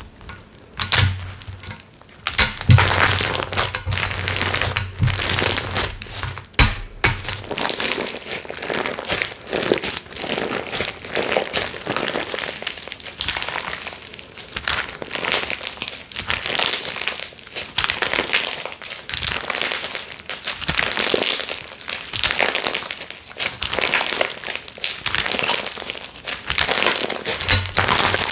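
Slime being squeezed and pressed by hand over and over: a run of irregular squishing strokes, about one to two a second. A low hum sits under the first several seconds, then stops.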